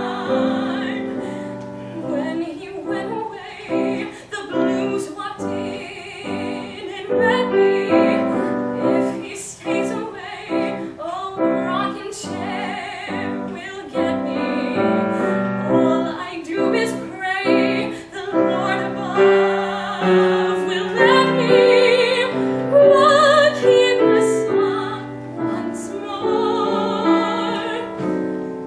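A woman singing with vibrato over piano accompaniment, a slow jazz ballad performed live.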